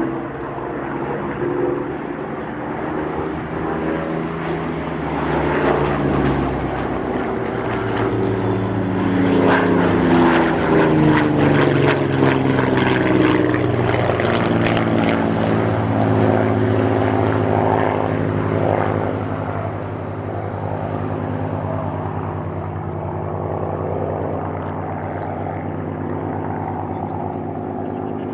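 Piston-engined propeller aircraft flying past. The engine notes glide in pitch as they pass, louder in the middle, then settle to a steadier drone near the end.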